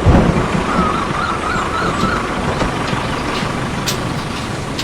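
A thunderclap rumbling away at the start, then steady rain with a wavering high warble running over it.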